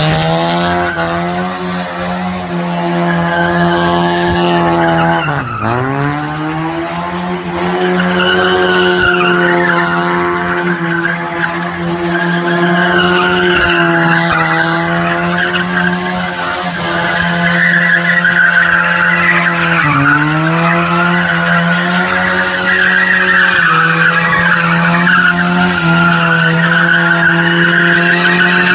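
Tofaş Doğan SLX 2.0ie's four-cylinder petrol engine held at high revs while the car drifts, with tyre squeal and hiss over it, louder in the second half. The revs dip sharply and climb back twice, about five seconds in and again near twenty seconds.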